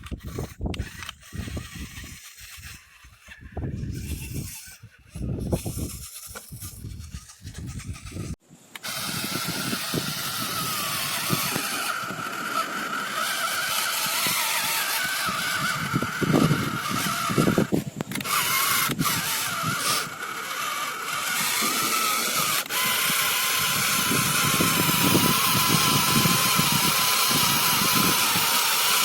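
Scattered low knocks and handling noises, then about nine seconds in a small motor starts and runs steadily with a wavering whine and a hiss.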